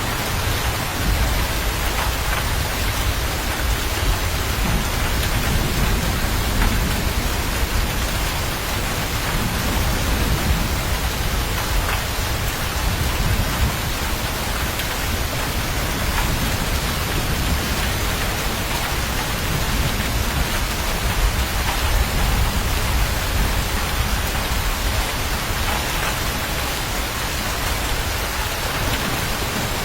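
Steady rain falling, an even unbroken hiss, with a low rumble underneath.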